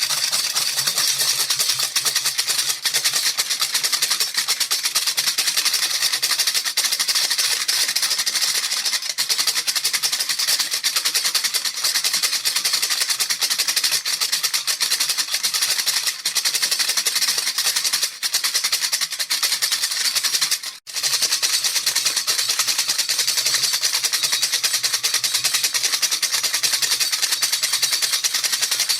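Baby rattle shaken fast and without letup, its beads making a dense, steady rattle, with one brief break about three-quarters of the way through.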